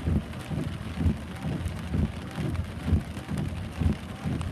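Heavy rain falling steadily, with gusts of wind buffeting the microphone in low rumbling thumps about twice a second.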